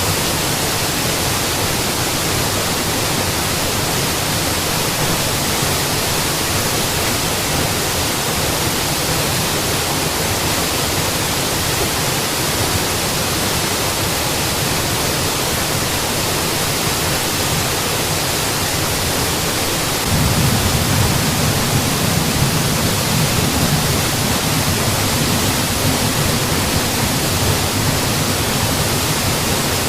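Mountain waterfall: steady rushing and splashing water. About two-thirds of the way through, its low rumble grows stronger and the sound gets a little louder.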